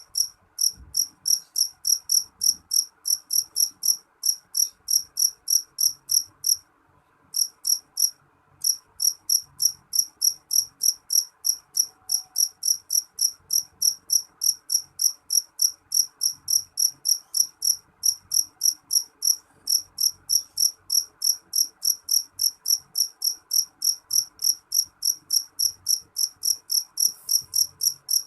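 A cricket chirping: a steady run of short, high-pitched chirps, about three a second, with a short break about seven seconds in before it picks up again.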